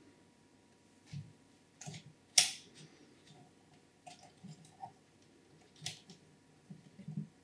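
Quiet, scattered clicks and small knocks of PC parts being handled during assembly, about nine in all, the sharpest about two and a half seconds in.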